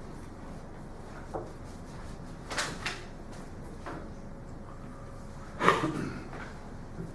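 Classroom room tone with a few scattered knocks and clicks, the loudest a little past halfway through.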